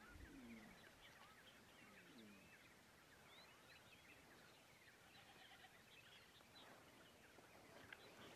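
Near silence outdoors, with faint distant birds chirping throughout and two faint low falling calls, about half a second in and again about two seconds in.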